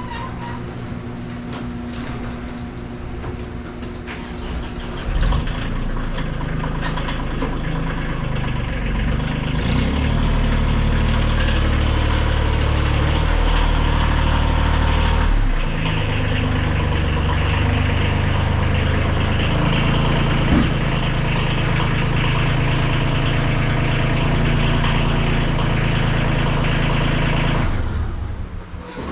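Small engine running steadily. Its speed and load shift a few times, and it dies away near the end.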